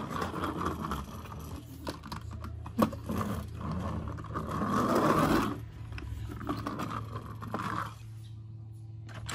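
Plastic toy monster truck's wheels rolling and scraping on a wooden tabletop as a hand pushes it along, with a few small clicks; loudest around five seconds in.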